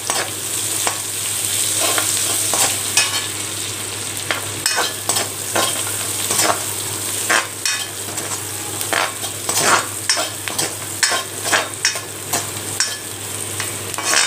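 Chopped onions and curry leaves sizzling in hot oil in a kadai, stirred with a metal spoon that scrapes and clicks against the pan many times at an uneven pace.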